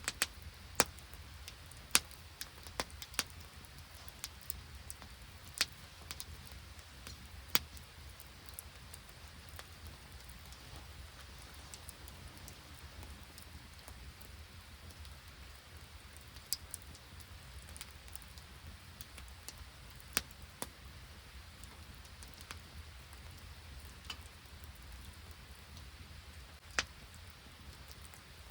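Rain and sleet falling in a steady hiss, with scattered sharp ticks, most of them in the first eight seconds and a few more later on.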